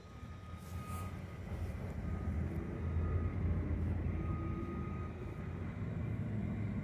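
Low rumble of an approaching train, its diesel locomotives not yet in sight, growing louder about two seconds in and then holding steady. A thin, high beep comes and goes over it.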